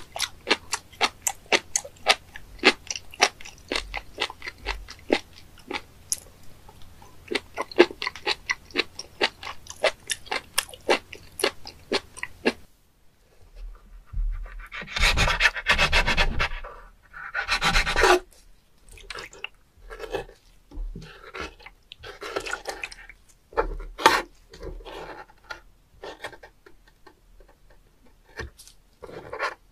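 Close-miked chewing of raw spoonworm (penis fish), a fast run of crisp, wet crunching clicks. About halfway through it gives way to a knife slicing, squishing and scraping a long slimy worm-like sea creature on a wooden cutting board, in irregular wet squelching strokes.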